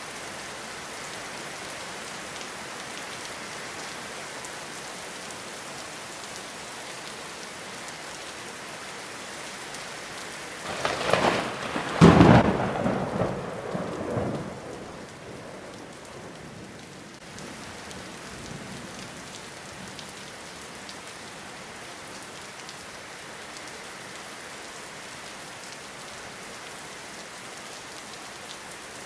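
Steady rainfall hissing throughout. About ten seconds in, a loud thunderclap breaks with several sharp cracks and rumbles away over the next few seconds.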